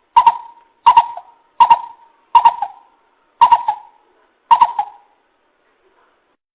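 Coucal (bìm bịp) calling: a run of six short hooting notes, each starting with a sharp click, under a second apart, stopping about five seconds in. It is a decoy call for luring wild coucals.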